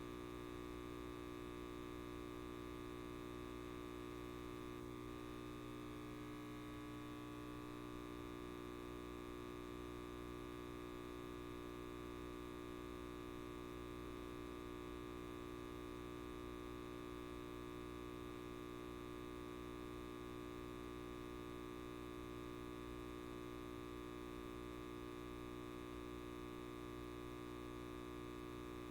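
Light bulb buzzing: a steady, faint electrical hum that does not change, with one faint tick about five seconds in.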